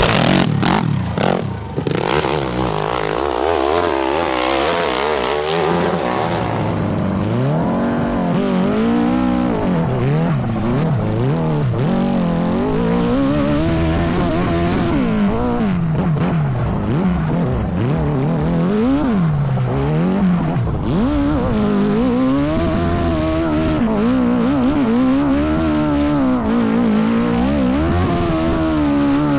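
Enduro dirt bike engines revving hard and unevenly, the pitch surging up and dropping back every second or two as the riders fight for grip on a steep hill climb. There are a few sharp knocks in the first couple of seconds.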